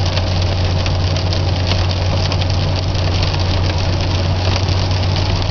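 Steady low hum of a car engine and cabin, heard from inside the vehicle, with faint scattered ticks over it.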